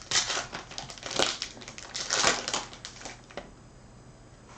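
Foil trading-card pack wrapper being torn open and crinkled by hand, in three rustling bursts about a second apart, then quieter handling.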